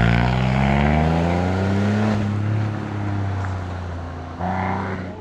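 Rally car engine accelerating hard on a special stage: a sudden loud burst, then the pitch rises steadily for about two seconds before fading as the car goes away. A second, shorter burst of engine comes near the end.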